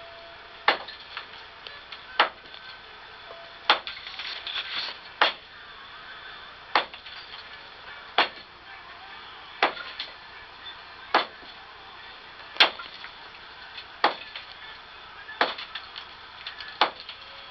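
Hammer blows striking at a steady pace, one sharp strike about every second and a half.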